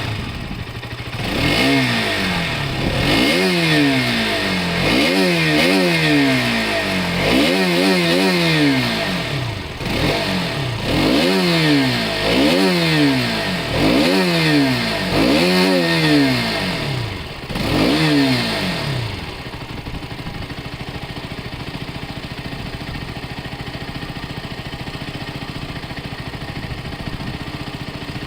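Motorcycle engine, just started, revved repeatedly with the throttle blipped about a dozen times, each rev rising and falling in pitch, then settling to a steady idle for the last nine seconds or so.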